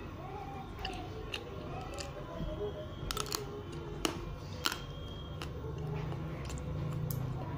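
Chewing frozen chocolate: scattered sharp mouth clicks and crunches, the loudest a little past the middle, over a low steady hum.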